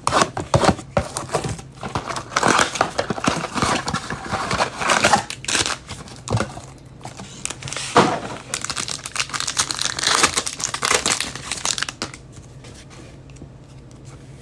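A blaster box of football trading cards being opened, with the box and pack wrappers crinkling and tearing in a dense run of crackles that stops near the end.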